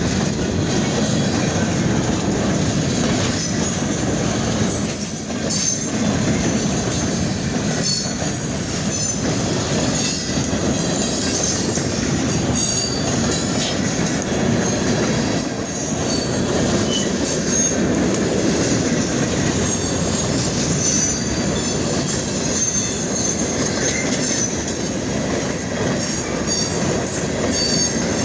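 De Queen & Eastern freight cars rolling past with a steady heavy rumble of steel wheels on rail. Brief high wheel squeals come and go throughout, along with some clacking over rail joints.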